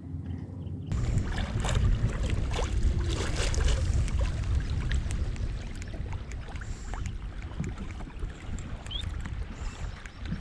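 Wind buffeting the microphone on a fishing kayak, starting suddenly about a second in and easing off later, with small knocks against the hull.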